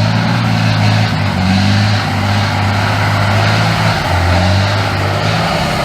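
A truck engine running hard and loud, its note dipping slightly and recovering a few times.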